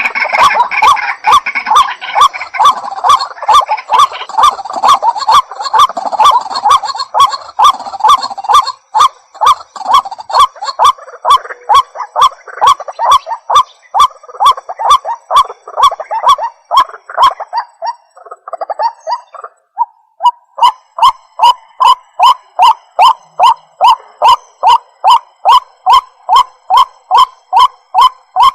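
White-breasted waterhen calling: a long run of loud repeated notes, about two a second, that falter briefly about two-thirds of the way through and then resume evenly.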